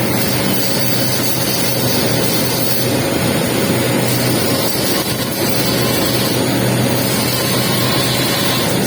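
Welding arc crackling and hissing steadily during a capping pass on a pipe joint, over a steady low machine hum.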